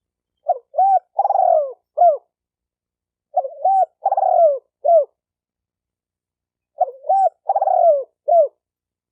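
Spotted dove cooing: three phrases about three seconds apart, each of two short coos, a longer rolling coo that falls in pitch, and a short final coo. It is a recorded call of the kind played as a lure to provoke other spotted doves into calling.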